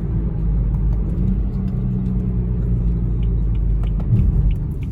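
Car engine and tyre noise heard from inside the cabin at about 80 mph, a steady low rumble with a brief louder swell about four seconds in.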